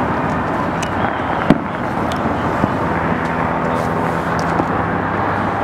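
Distant New Year's fireworks over the city: a continuous rumble of bursts with scattered sharp pops, the loudest about one and a half seconds in. A low steady hum joins from about three seconds in.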